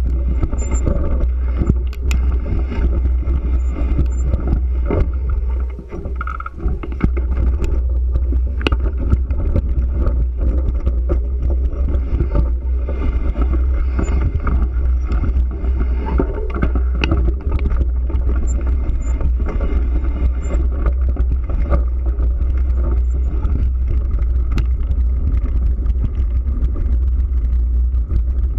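Steady low wind rumble on the microphone and road noise from riding, with scattered clicks and rattles and a brief lull about six seconds in.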